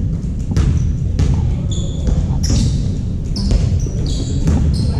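A basketball bouncing on an indoor court during play, in irregular thuds, with brief high squeaks from players' sneakers and a constant crowd and room rumble underneath.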